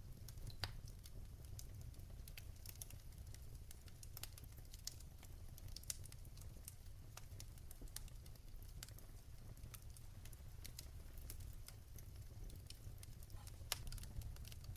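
Fireplace wood fire crackling: a steady scatter of faint, sharp pops and clicks over a low, even rumble, with a few louder pops, one about half a second in.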